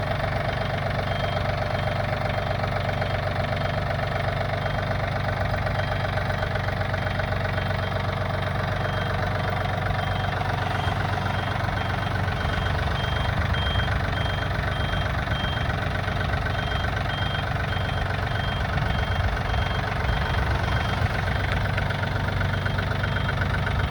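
Yanmar AF26 compact tractor's diesel engine idling steadily, with a faint high-pitched tone pulsing on and off through most of it.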